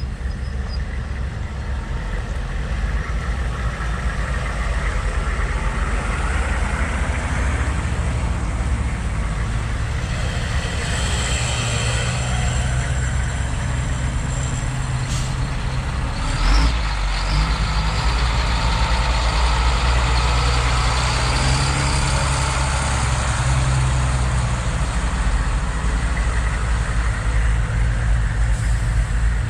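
Military trucks' engines running steadily in a low rumble, with a brief loud burst of noise about sixteen seconds in.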